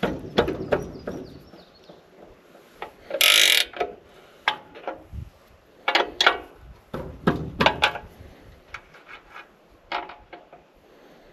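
Hand-tool work on the sawmill's metal blade-wheel adjustment: a series of sharp metal clanks and knocks, with a short harsh rasp about three seconds in, as the wheel is adjusted to bring the blade parallel to the bunks.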